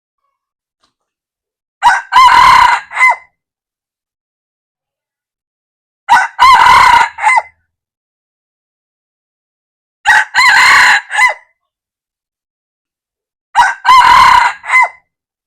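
Junglefowl rooster crowing four times, about four seconds apart. Each crow lasts about a second and a half and is broken into a brief opening note, a longer middle and a quick clipped final note.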